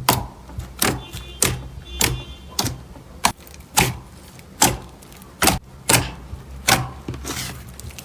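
Slime being pressed and worked by hand, giving a string of sharp pops, about one or two a second.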